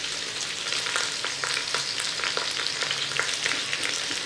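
Chunks of meat and chopped onion frying in a stainless-steel pot: a steady sizzle with many small sharp crackles, stirred with a wooden spoon toward the end.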